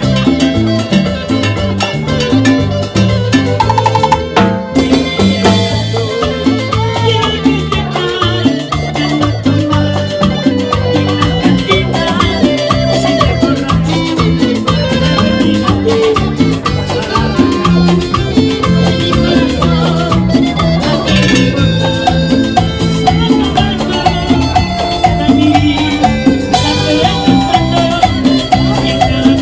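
A live band playing Latin dance music, with a steady bass line and percussion, and a brief break about four and a half seconds in.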